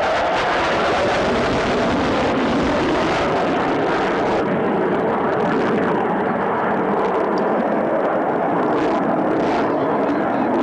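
Aircraft engine noise from a fixed-wing aircraft in flight, loud and steady, brighter for the first few seconds and then duller as it draws away.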